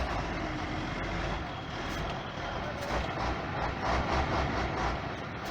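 Heavy truck's diesel engine running, with an uneven low rumble.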